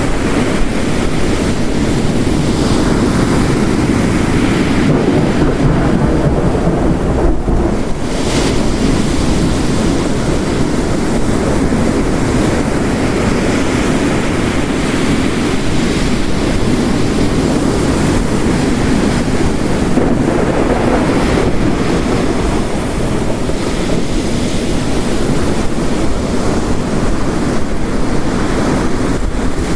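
Layered storm ambience: ocean surf crashing on a rocky coast mixed with steady heavy rain, making a dense, continuous wash of noise. A deeper low rumble swells briefly about five to eight seconds in.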